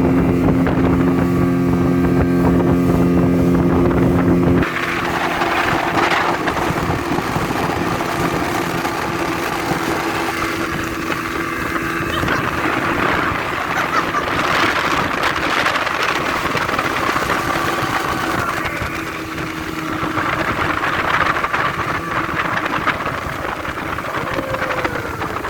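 Motorboat engine running steadily. About four and a half seconds in, the sound changes abruptly to a rushing wash of wind and water noise, with the engine fainter underneath.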